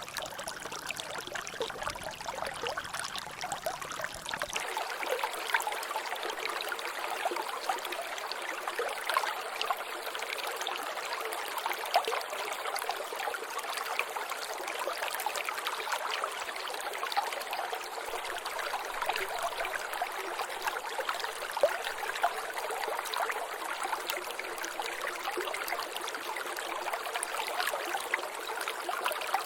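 Water trickling and dripping steadily in a small natural drainage channel, with many small splashes. A low rumble under it drops away about four seconds in.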